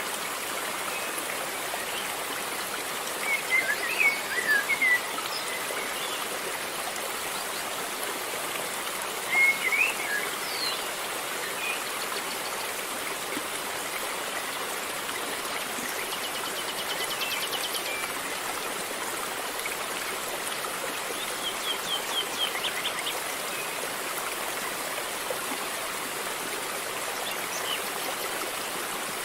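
River water flowing steadily, with birds chirping several times over it, including a quick trill about halfway through.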